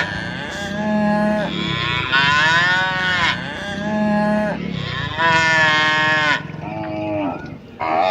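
Ox lowing: a run of about five long moos, one after another, each rising and falling slightly in pitch.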